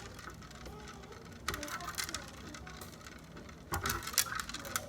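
Two short bursts of rattling, crackling handling noise, one a second and a half in and one near the end, with faint voices underneath.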